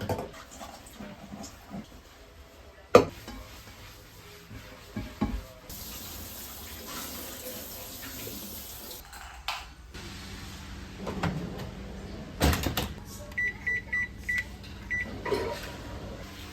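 Kitchen work: scattered knocks and clatter, a stretch of running-water hiss, then a steady appliance hum with five short electronic beeps near the end.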